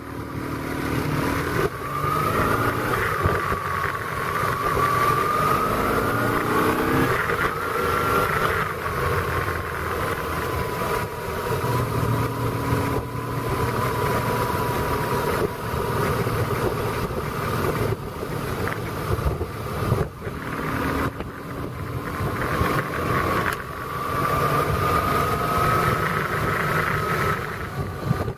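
A vehicle's engine running while driving. Its note slowly rises and falls as the revs change, over a steady rushing noise.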